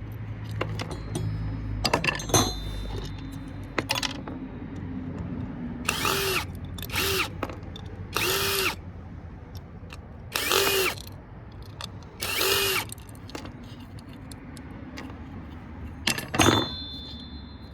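Cordless drill/driver run in short bursts, about seven times, backing screws out of an MRI power supply board, with handling clatter between the runs.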